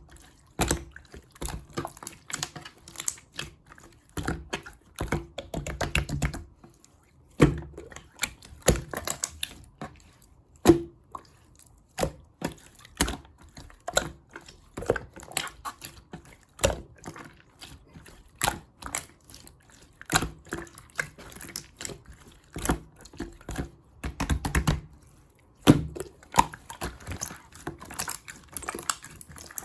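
Clear slime being worked by hand, giving an irregular run of sticky clicks and small pops, several a second.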